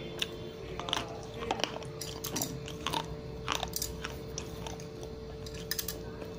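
Slate pencil being bitten and chewed close to the microphone: a string of irregular, sharp crunches as the brittle slate breaks between the teeth.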